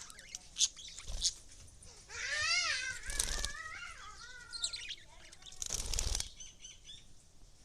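Pet lovebirds chirping, with a run of rising-and-falling calls about two seconds in. Two short bursts of wing flapping come about three and six seconds in.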